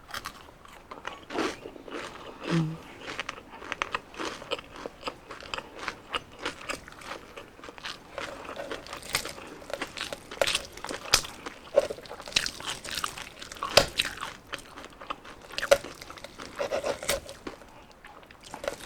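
Close-up eating of crispy deep-fried skin: bites and chewing give a continuous run of sharp crackling crunches, with the louder crunches scattered all through.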